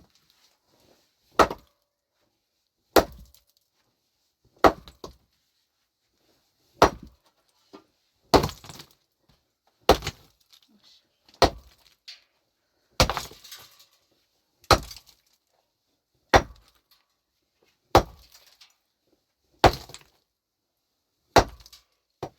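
A heavy hand tool striking hard over and over: about thirteen blows, roughly a second and a half apart, each followed by a short scatter of rattling bits.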